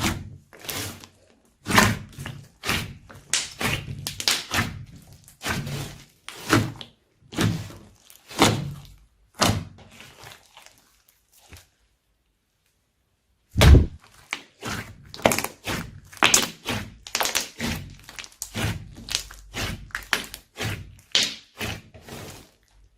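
Slime being mixed and squished, a steady run of sticky pops and slaps about one or two a second. They break off for about two seconds a little past the middle, and a heavy slap starts them again.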